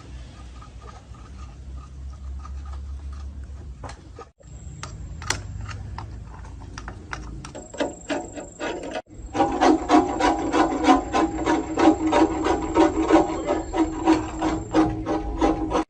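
Repeated rasping scrape strokes, as of a file or scraper worked on a metal part. The strokes are faint at first over a low steady rumble, then come fast and loud from about nine seconds in.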